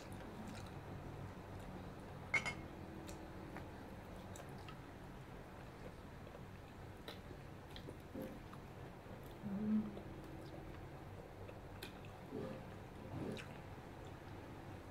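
Faint chewing and biting as people eat fried skewered snacks, with a few short clicks, the sharpest about two and a half seconds in.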